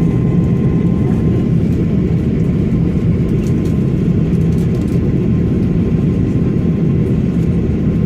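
Steady cabin noise of an Airbus A330-300 airliner in flight on its approach to landing: a constant low rumble of engines and airflow, with a faint steady whine above it.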